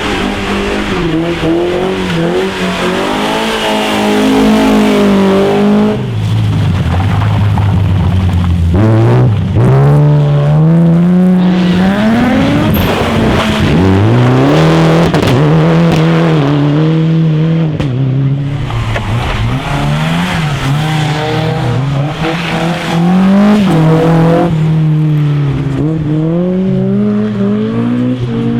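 Rally car engines revving hard through the gears: the engine note climbs and drops over and over as the cars accelerate, shift and brake.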